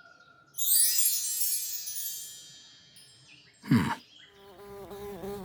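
Cartoon sound effects: a sparkling chime shimmer rings out about half a second in and fades away, a short falling swoosh follows near four seconds, then a steady wavering buzz like a flying insect begins near the end.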